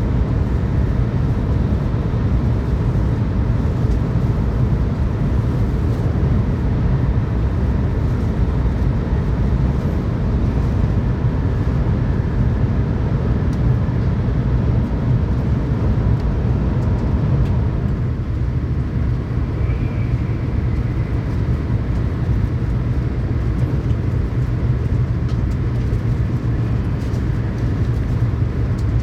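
Tokaido Shinkansen train running steadily, heard from inside the passenger car: an even, deep rumble of wheels and running gear that does not change.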